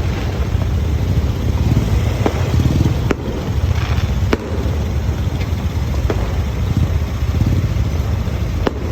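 A few sharp fireworks pops, spaced a second or more apart, over a steady low rumble.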